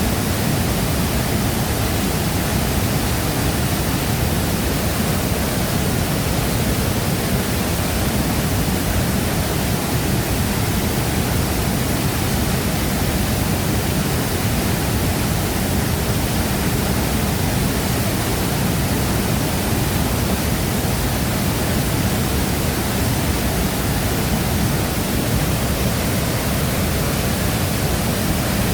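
Large waterfall: a steady, dense rush of falling water, heaviest in the low rumble, with no breaks or changes.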